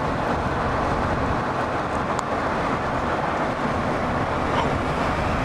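Steady road and wind noise of a pickup truck moving at highway speed, heard from its back.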